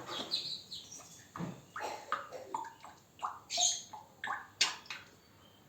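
African grey parrot chatting to himself: a quick string of short squeaks, clicks and whistle-like notes, stopping about five seconds in.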